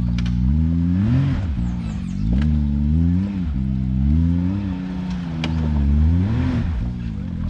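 Side-by-side UTV engine revving up and falling back over and over, about every second and a half, as it works up a rock ledge, with a few sharp knocks.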